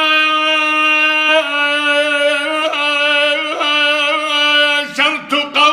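A male voice singing an Arabic mawwal, holding a long wordless melismatic note with wavering ornaments and small pitch steps, broken off briefly near the end before the next phrase.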